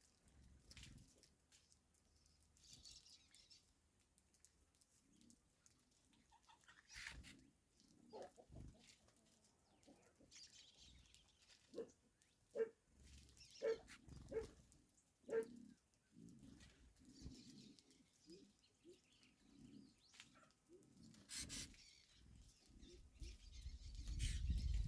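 Faint, mostly quiet outdoor sound with scattered small knocks. About halfway through there is a run of five short, low-pitched animal calls, likely from a bird.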